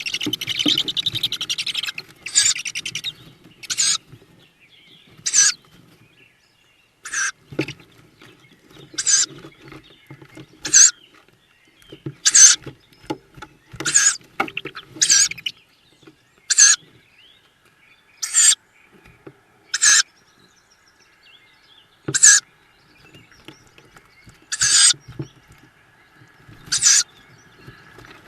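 Tawny owl chicks giving short, hissing begging calls, repeated every one to two seconds, with a busier run of overlapping sound in the first couple of seconds.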